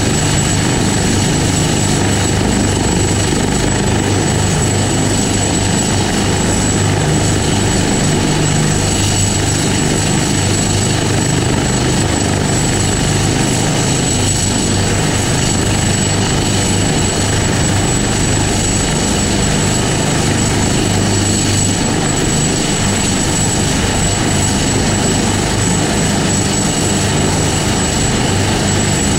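Helicopter running steadily, a dense rotor and engine noise with a thin, high, steady whine over it.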